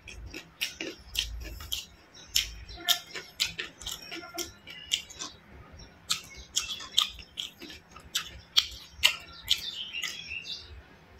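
Close-miked chewing of crumb-coated fried chicken: irregular wet crunches, mouth clicks and lip smacks, several a second.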